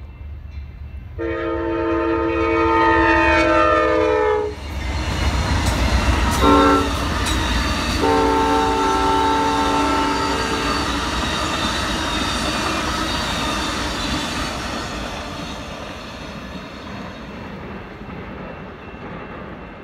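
Amtrak passenger train going by at speed. The locomotive horn sounds a long blast that drops in pitch as it passes, then a short one and another long one. After that the rumble and clickety-clack of the Superliner cars goes by and fades away down the line.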